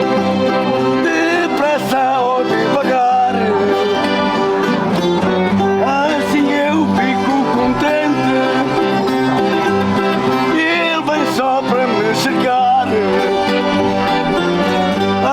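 Folk music from plucked string instruments and an accordion playing together, with voices singing along.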